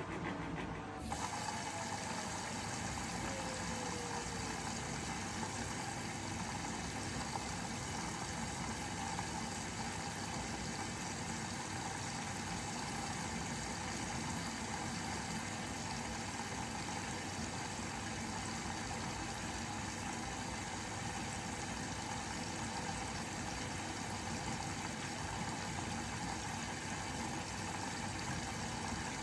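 Bosch Serie 4 front-loading washing machine with water rushing through it in a steady stream that starts abruptly about a second in. A faint motor whine falls in pitch over the first few seconds as the drum slows.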